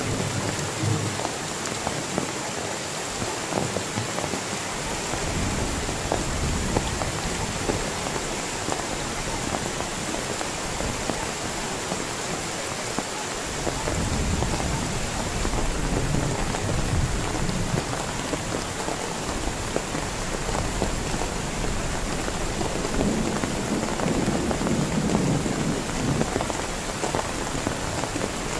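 Heavy rain falling steadily, with low thunder rumbling that swells in from about halfway through.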